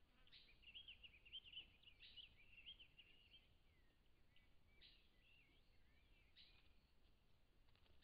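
Faint birdsong: a rapid twittering phrase for the first three seconds or so, then scattered short chirps and a few sharp clicks over a quiet hiss.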